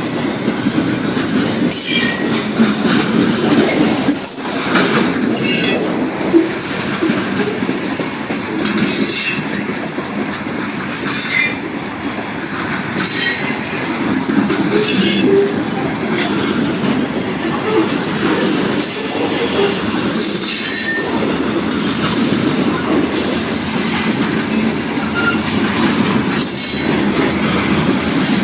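Freight train cars rolling past on steel rails with a steady rumble, their wheels squealing high and shrill in short bursts every second or two.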